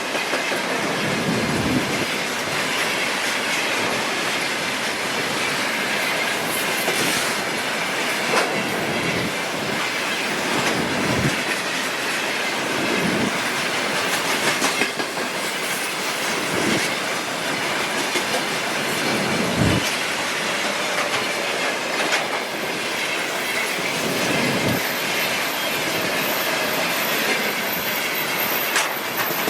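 A railway train rolling past at close range: steady wheel-on-rail rumble with short rail-joint clacks every couple of seconds, and a thin high wheel squeal near the end.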